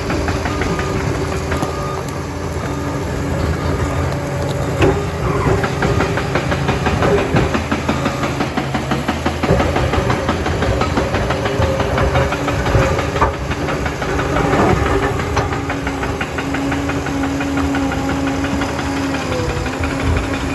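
Liebherr PR 746 crawler dozer's diesel engine running steadily, with a wavering whine and frequent knocks and clanks over it.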